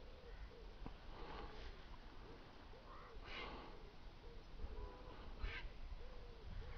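Faint outdoor sound: a bird's low cooing call repeats about every half second, with three short breathy rushes of noise and a low wind rumble on the microphone.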